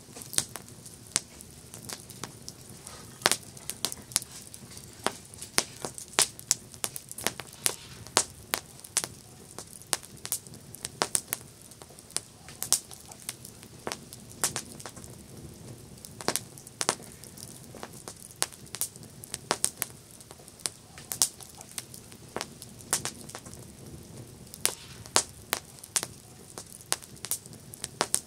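Campfire crackling: frequent, irregular sharp pops and snaps of burning wood over a soft, steady low hiss of the flames.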